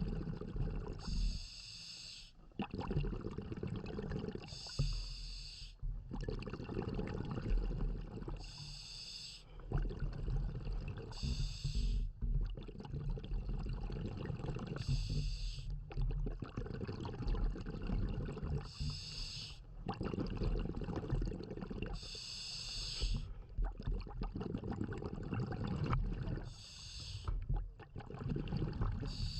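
Scuba diver breathing through a regulator underwater. Short hissing inhalations alternate with longer rumbling bursts of exhaled bubbles, in a steady rhythm of about one breath every three and a half to four seconds.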